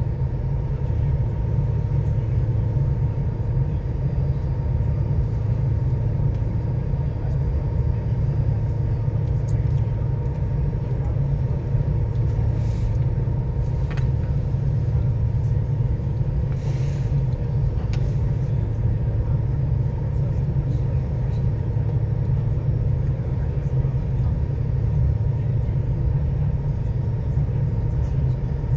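Steady low rumble of a ferry underway, its engines droning, with a faint steady hum above it.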